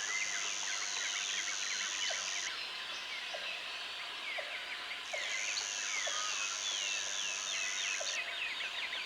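Several birds chirping and singing together in a dense outdoor chorus. A high, steady buzz sounds twice for about three seconds each, at the start and again about halfway through.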